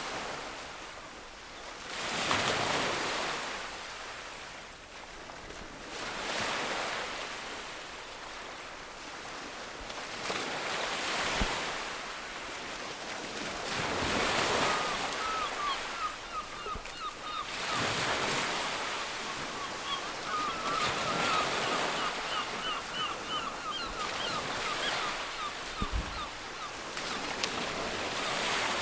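Ocean surf washing in waves that swell every few seconds, with wind. From about halfway through, quick, high chirping bird calls come in over the surf.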